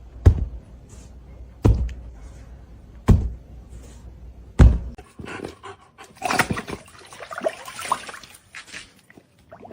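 Four dull, heavy thumps about a second and a half apart, followed by a few seconds of scuffling, rustling noise.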